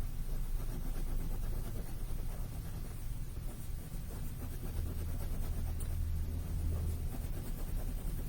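Pen scratching on paper as it fills in solid black stripes, over a steady low rumble that grows stronger about halfway through.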